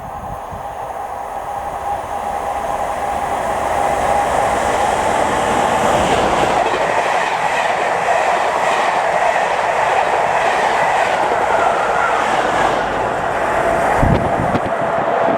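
A train approaching and passing at speed, getting louder over the first few seconds. Through the middle it makes a rapid clickety-clack of wheels over the rail joints, with a low thump near the end.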